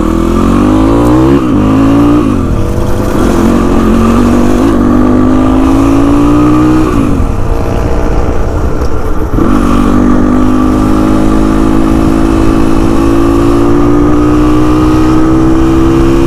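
Motorcycle engine pulling away and accelerating through the gears: its pitch climbs, then drops at each upshift, about a second and a half in, about seven seconds in and about nine and a half seconds in, with wind rushing past.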